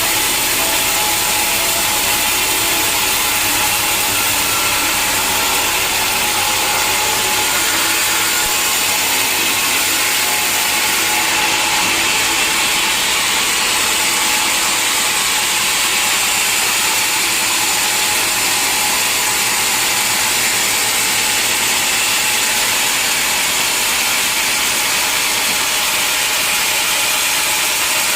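Sawmill machinery running steadily: a loud, continuous mechanical noise with several steady high tones over it, typical of a log being sawn.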